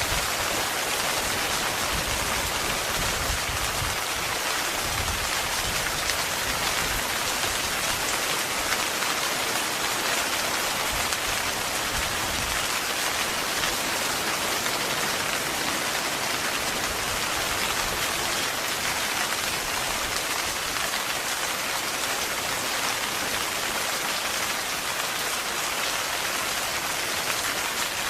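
Heavy rain falling steadily on a tent, a dense, even hiss of countless drops.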